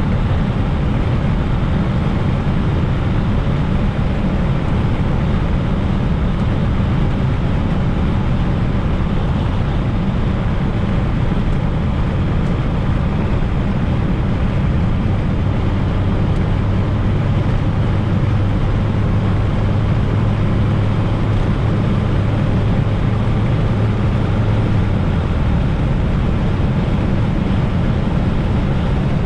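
Fiat Coupe 16V Turbo's turbocharged four-cylinder engine running under way, with steady road and tyre noise. About halfway through, a steady low engine note holds for some ten seconds, then drops away.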